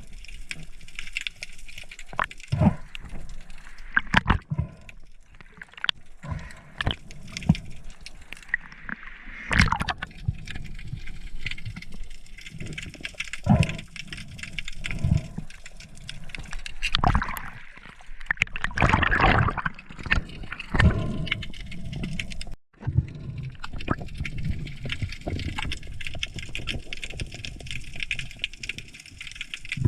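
Water sloshing and gurgling around a diving camera in the sea, with scattered sharp knocks and a brief break about two-thirds through.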